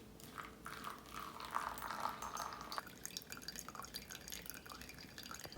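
Faint water dripping and trickling, most likely the creek, with scattered small drips and ticks and a slightly fuller trickle between about one and a half and three seconds in.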